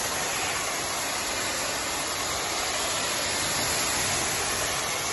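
Jacto 12000 industrial high-pressure washer running, its 7.5 hp WEG electric motor and 3000 PSI pump driving the water jet in an even, steady hiss.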